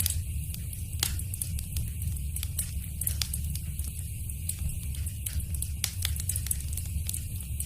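Fireplace fire crackling: frequent sharp snaps and pops, a few louder ones among them, over a steady low rumble of the flames.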